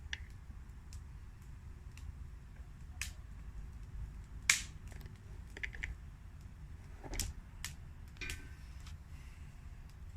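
Campfire crackling, with sharp, irregular pops and snaps, the loudest about halfway through, over a low steady rumble.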